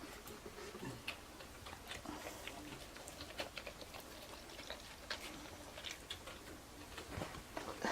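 A toothbrush working on a dog's teeth: irregular small clicks and light scrapes of bristles and brush against teeth, a few a second.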